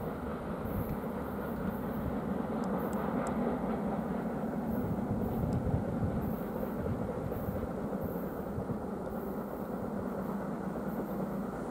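Freight train wagons rolling along the track, a steady rumble that eases slightly near the end as the train moves away.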